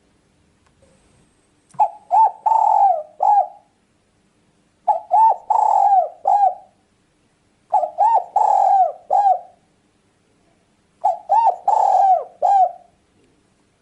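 Spotted dove (tekukur) cooing: four repeated phrases of several notes each, about three seconds apart.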